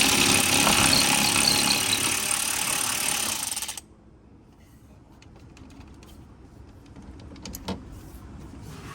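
Impact wrench running in one burst of about four seconds, then cutting off abruptly, followed by a few faint clicks.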